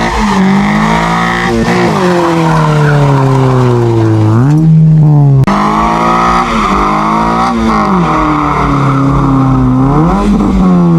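Car doing a burnout: engine revving hard with tyres squealing, its pitch sagging slowly and then jumping up sharply about three times as the throttle is stabbed again.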